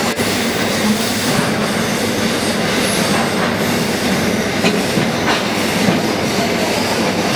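Electric passenger train running along the track, heard from inside the carriage: a steady rumble of wheels on rail, with a couple of sharp clicks about halfway and a brief faint high squeal about three seconds in.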